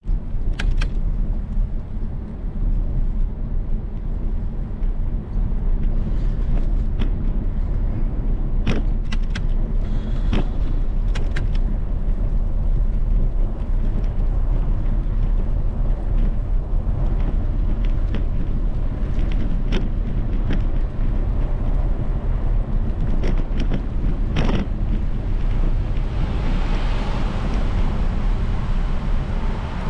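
Steady wind rumble and road noise from riding a bicycle, with a few sharp knocks and clicks scattered through.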